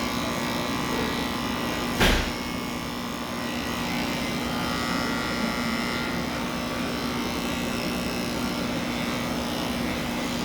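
Electric pet clippers running with a steady buzzing hum while shaving a cat's coat. A sharp knock sounds once about two seconds in.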